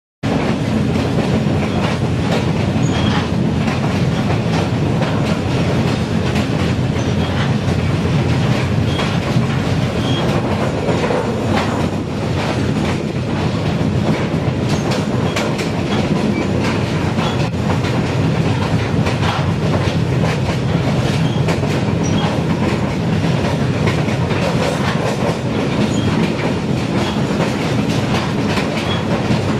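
TAZARA passenger train running at speed, heard from aboard the carriage: a loud, steady low running noise with the wheels clicking over rail joints. The sound cuts in suddenly right at the start.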